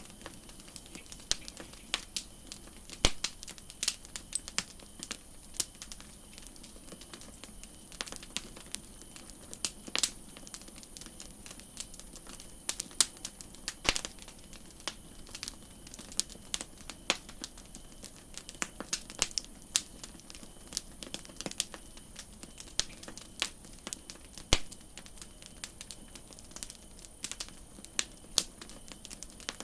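Wood campfire crackling: irregular sharp pops and snaps, several a second, over a soft steady hiss.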